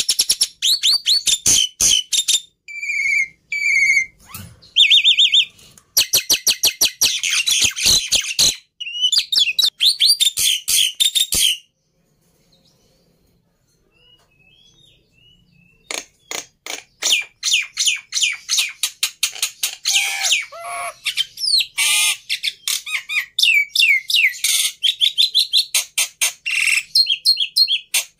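Black-winged starling (jalak putih) singing: fast runs of sharp, repeated chattering notes mixed with whistles. It falls silent for about four seconds midway, then starts again.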